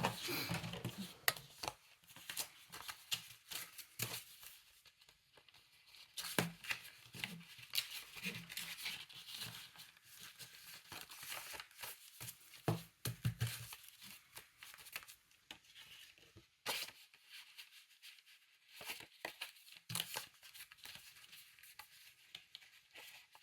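Paper being handled: irregular rustling and crinkling of journal pages, with scattered sharp taps and clicks.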